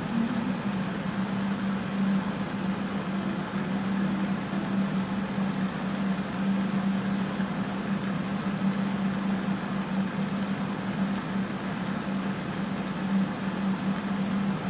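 Electric fans running steadily: a constant rush of air with a steady low hum.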